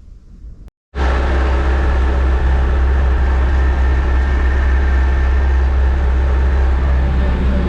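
Massey Ferguson 265 tractor running, a loud steady engine noise that starts abruptly after a brief silence about a second in.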